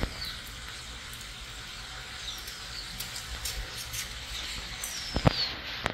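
A bird calling, a high whistled note that falls in pitch, three times about two seconds apart, over a steady background hiss. A sharp knock near the end.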